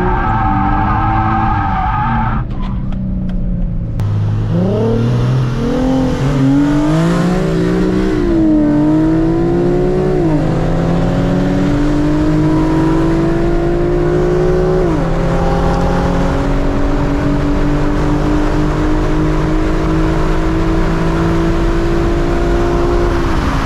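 Car engine accelerating hard through the gears: after a short break about three seconds in, its pitch climbs, drops sharply at upshifts near ten and fifteen seconds in, then holds high.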